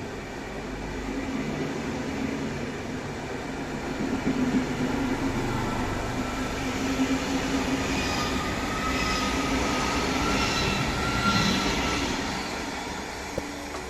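Pendolino high-speed electric train running on the track, a steady rumble and hiss, with faint high whines coming in about eight seconds in.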